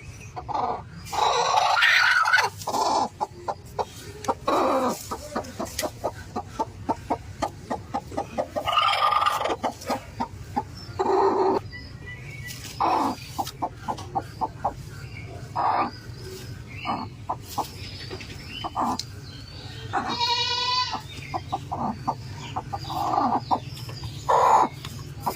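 Chickens clucking: runs of short clucks, a few a second, broken by several longer calls, one of them a strongly pitched call near the end.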